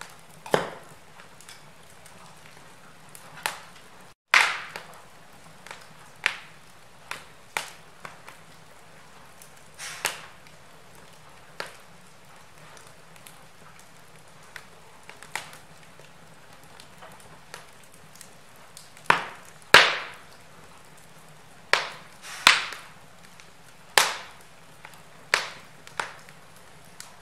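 Wood fire in a fireplace crackling: irregular sharp pops and snaps over a faint steady hiss, with a cluster of louder pops in the second half.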